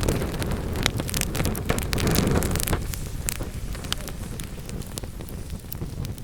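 Wood fire burning in a fireplace: a low rumble of flames under many sharp, irregular crackles and pops of burning wood. The rumble is fuller for the first half and eases from about three seconds in, with fewer, sparser pops after that.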